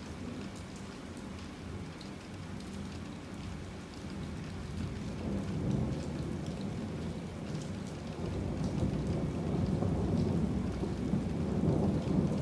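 Heavy rain falling steadily, with a low, rolling thunder rumble that builds from about four seconds in and swells louder towards the end.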